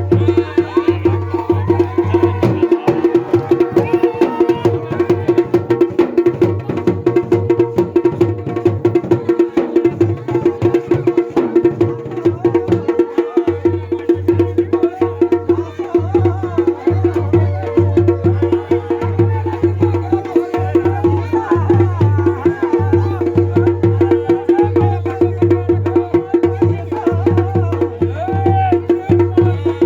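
Garhwali dhol and damau drums playing a fast, continuous mandan rhythm with dense, rapid strokes.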